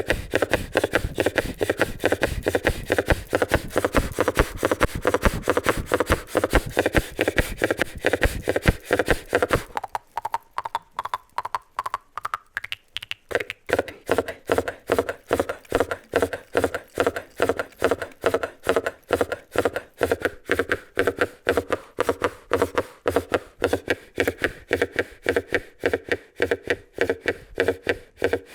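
Khomus (Yakut jaw harp) played in a rapid, even, galloping rhythm over a steady twanging drone, like hoofbeats. About ten seconds in, the low part drops out for a few seconds and then returns.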